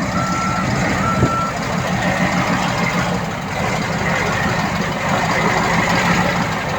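Heavy diesel earthmoving machinery working, with a reversing alarm giving two short beeps in the first second and a half, then stopping while the engine runs on steadily.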